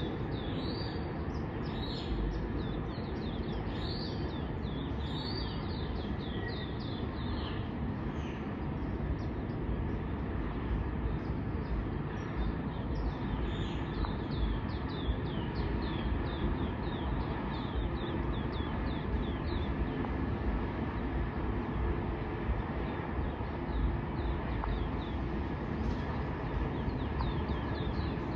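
Small birds chirping over and over in quick falling notes, thickest in the first several seconds and again around the middle, over a steady low rumble.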